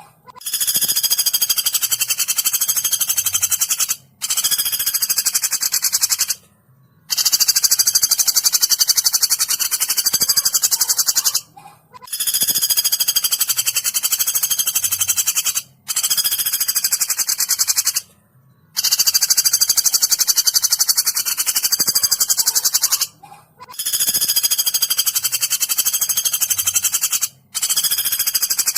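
Woodpecker call played as a song-training recording: a high-pitched, very rapid rattling trill repeated in bursts of two to four seconds with short breaks between them.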